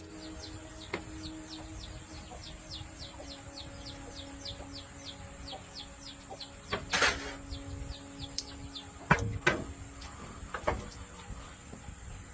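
An animal chirping rapidly: short, high, downward-sliding chirps about three a second, over a steady hiss, with a few sharp knocks in the second half.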